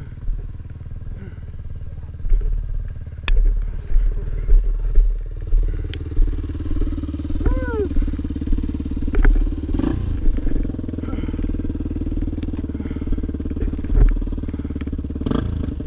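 Motorcycle engine running steadily at idle, setting in about five seconds in, after gusty wind buffets the helmet microphone. A few knocks and rattles sound over it.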